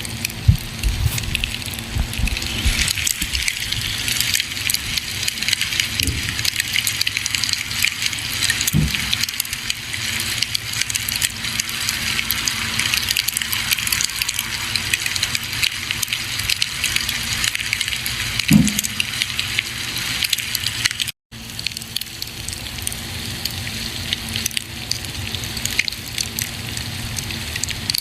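Campfire burning with a steady hiss and dense crackling, with a few low thumps near the start and a couple of louder pops. The sound cuts out for a split second about three-quarters of the way through.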